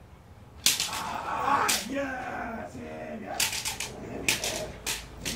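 A series of sharp cracks or slaps, about eight of them, several in quick succession near the middle, with a voice in between.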